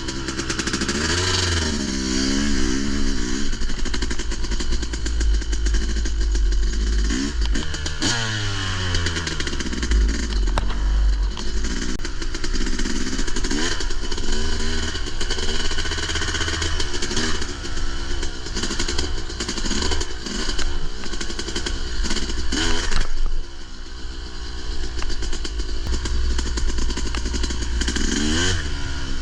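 Dirt bike engine revving up and down repeatedly as the bike is ridden along a trail, with rattling and clatter from the bike.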